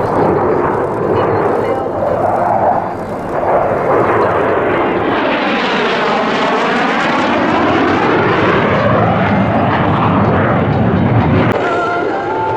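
Military jet fighter's engines at high power during a low display pass, the noise swelling to its loudest about halfway with a sweeping, phasing whoosh as it goes by, then cutting off suddenly near the end.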